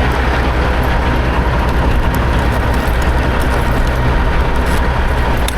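Semi truck's diesel engine running steadily at low revs as the truck pulls away.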